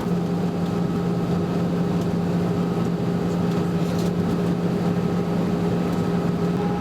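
Steady cabin noise of an Airbus A320 in flight: a constant rush of airflow and engine noise with an even hum.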